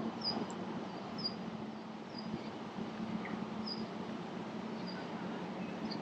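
Short, high bird chirps, one roughly every second, over steady background noise with a low hum.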